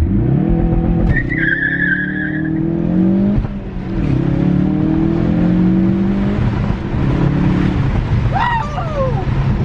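Car engine accelerating hard through the gears. Its pitch climbs and then drops sharply at each upshift, about every three seconds, and there is a brief high tyre squeal about a second in.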